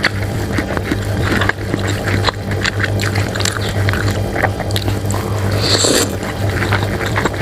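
Close-miked eating of bakso cuanki meatball soup: wet chewing and mouth noises with many small clicks, and a short hiss about six seconds in, over a steady low hum.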